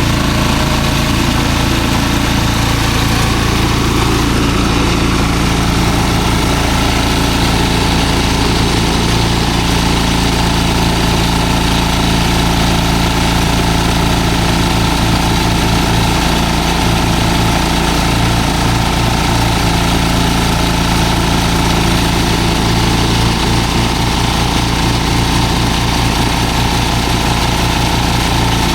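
Engine of rice-harvest machinery running steadily at a constant speed.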